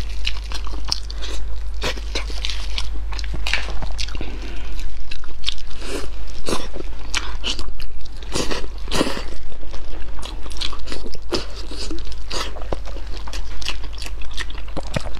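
Close-miked eating: biting into and chewing braised pig tail and trotter meat off the bone, a dense run of quick, sharp mouth clicks and smacks.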